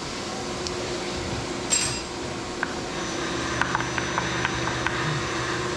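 Steady machine hum with a bright metallic clink, ringing briefly, a little under two seconds in, then a string of light metal ticks and taps from steel vise parts being handled and fitted.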